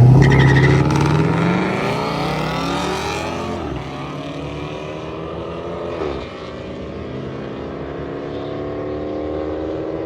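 Two drag-racing cars, one a Dodge Charger, launching and accelerating away down the strip, loudest at the start. Their engine notes climb in pitch and drop back twice, about four and six seconds in, as they shift gears, fading as the cars pull away.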